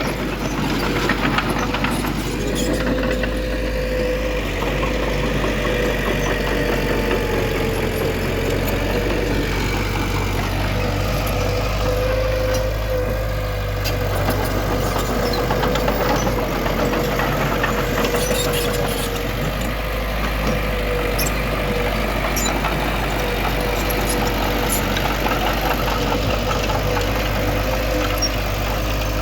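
Diesel engine of heavy earthmoving machinery running steadily, a constant low hum with a steady whine over it and scattered faint clicks.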